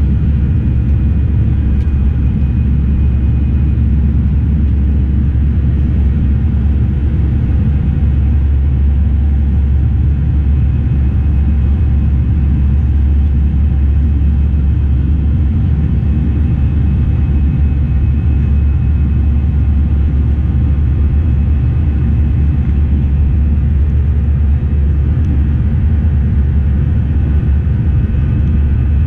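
Steady, loud low rumble of an Airbus A319's jet engines and airflow heard inside the cabin, with faint high steady engine tones above it.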